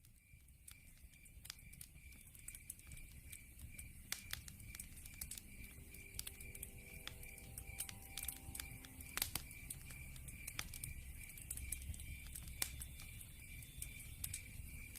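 Log fire crackling, with scattered sharp pops over a low rumble of burning, fading in over the first couple of seconds. A steady, evenly pulsed high chirping runs throughout.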